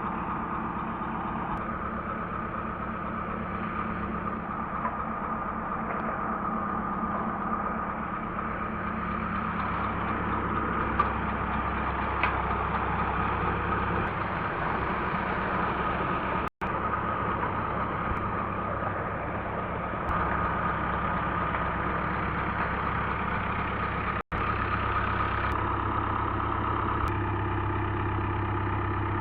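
Tractor diesel engine running steadily at a constant speed while driving a tubewell pump, with a rhythmic low drone. The sound drops out for an instant twice.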